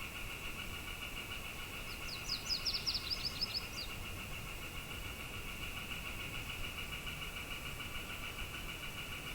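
A small songbird gives a quick trill of about a dozen sharp, high notes about two seconds in, over a steady, high-pitched pulsing drone with a low background hiss.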